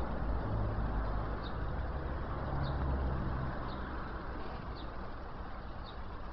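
A bird gives a short, high chirp about once a second over a steady rushing background noise with a low rumble.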